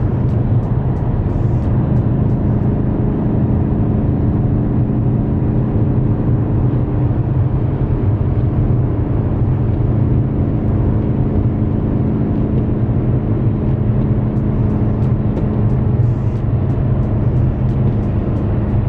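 Ford Mustang GT's 5.0 V8 engine running at a steady cruise, a constant low drone that holds the same pitch throughout.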